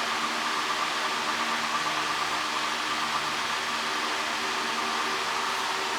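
Steady rushing hiss of a running fan-type machine, with a faint hum of several steady tones beneath it.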